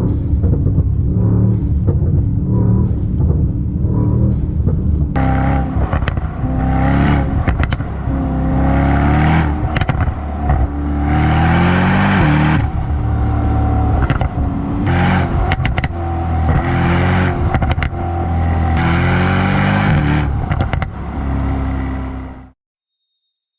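Brabus Rocket GT 900's twin-turbo V8 heard on the move: a steady low drone for the first few seconds, then revs climbing and dropping again and again as it accelerates, with short sharp cracks in between. The sound cuts off suddenly near the end.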